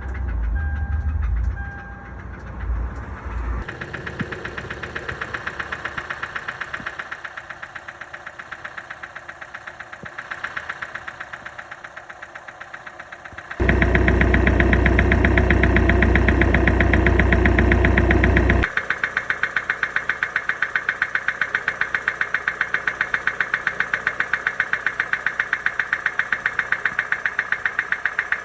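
Car engine running with a loud, steady, rhythmic knock, typical of a blown engine with failed internal bearings. The knocking gets louder and heavier for about five seconds midway.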